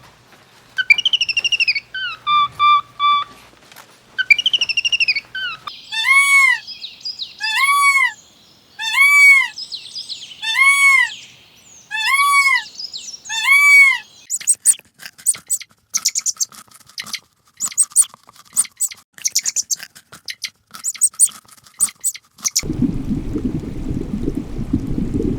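Parrot calls. First come whistled calls that fall in pitch, then about eight arched calls, each rising and falling, a second apart, then fast chirping. Near the end the calls stop and a low rushing noise takes over.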